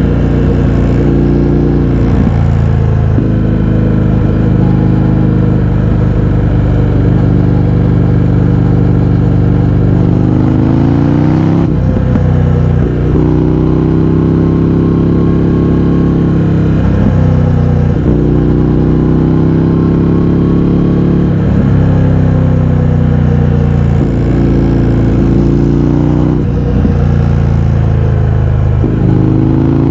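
Indian FTR 1200's V-twin through an Akrapovič exhaust with the baffles removed, under way. The engine note climbs and then breaks and drops at each of several gear changes.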